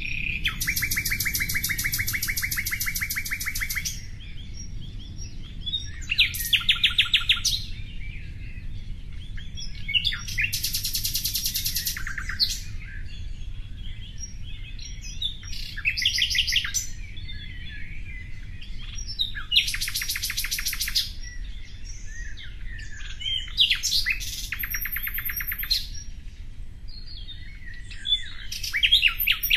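A songbird singing a series of rapid, high trills, each lasting one to three seconds and repeating every few seconds, over a steady low background rumble.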